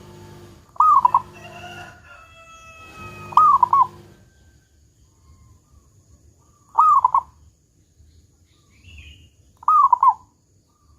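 Zebra dove (perkutut) cooing: four short bursts of its rolling coo notes, a few seconds apart. Under the first four seconds a longer, lower, drawn-out call from another bird runs behind it.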